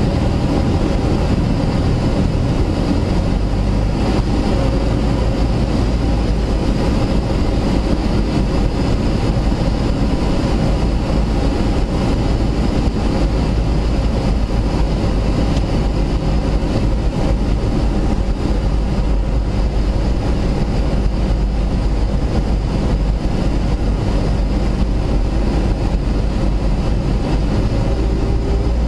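Cessna 172S's four-cylinder Lycoming engine and propeller running steadily, heard from inside the cabin as a loud, even drone.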